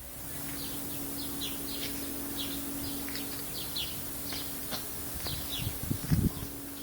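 Small birds chirping: many short, high chirps repeating over a steady low hum, with a few dull thumps near the end.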